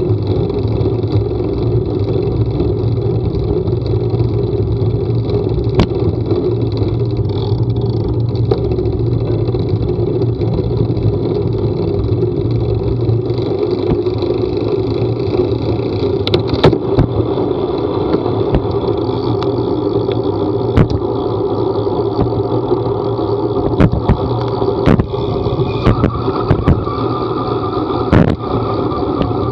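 Steady rumble of a moving vehicle on the road, with scattered sharp clicks and knocks, more of them in the second half.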